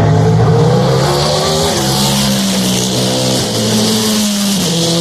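Several endurance race cars' engines running at once, their pitch holding and then stepping with gear changes. A rushing hiss grows from about a second and a half in.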